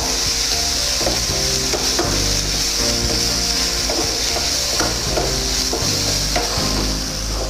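Chopped vegetables sizzling as they are stir-fried in hot oil in a frying pan, with the spatula's strokes against the pan coming every half second to second.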